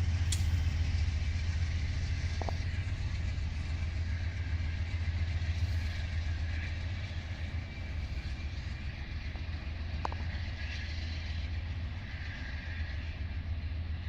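Train running with a steady low diesel rumble and a hiss of rail noise, slowly fading.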